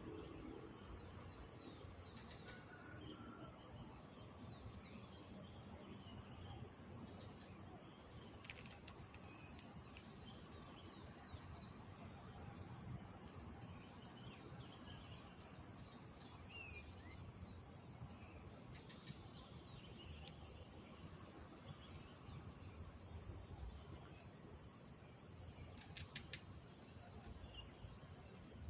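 Faint, steady high-pitched chorus of insects, crickets by their sound, with scattered short bird chirps and calls over it.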